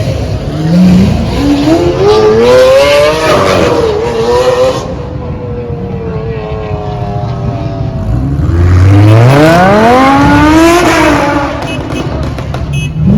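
A high-performance car engine accelerating hard twice: the exhaust note climbs steeply about a second in, then falls away, then climbs sharply again near the end.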